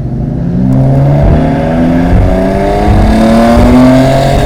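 Car engine accelerating hard, the revs climbing, dropping back at a gear change about two seconds in, then climbing again before lifting off near the end.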